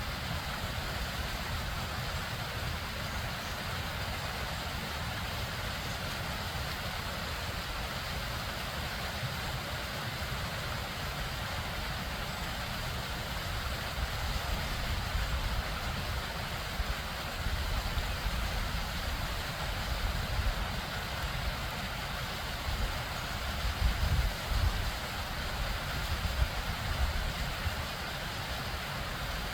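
A bubbling stream and waterfall, water running steadily with a continuous rushing hiss over a deep, uneven rumble that swells in the last few seconds.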